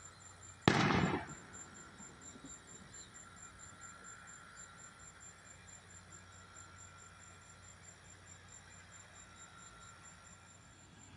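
A single sharp crack of close thunder from a nearby lightning strike about a second in, dying away within a second.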